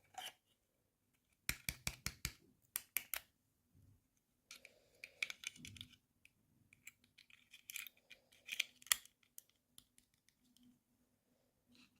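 Toy packaging being handled and opened by hand: a quick run of sharp clicks, then bursts of crinkly rustling.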